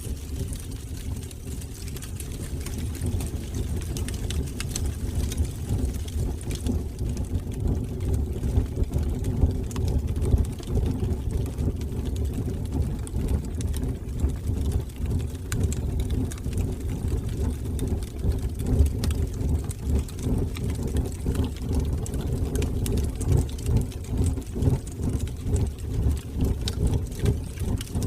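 Wood fire burning in a fireplace: a steady, fluttering low rumble of the flames with scattered faint crackles.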